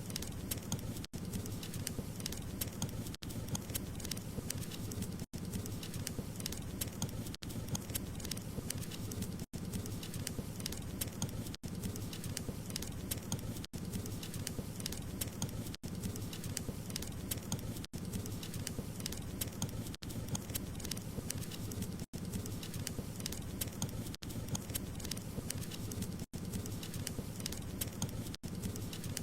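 Wood fire crackling steadily: dense small pops and snaps over a low rumble of burning, with a very brief dropout about every two seconds.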